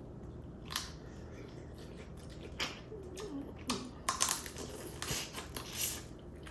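Cooked crab shells cracking and crunching as the crabs are broken open and eaten: scattered sharp snaps, several close together about four seconds in.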